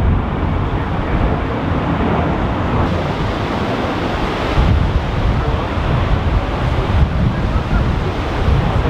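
Strong gusty wind buffeting the microphone, a dense rushing noise with heavy uneven low rumble, over the jet noise of an Airbus A320 climbing away under go-around thrust.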